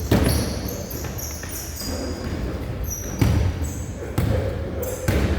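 Basketball bouncing on an indoor court floor, a few sharp thuds about a second apart, with brief high squeaks and players' voices around it.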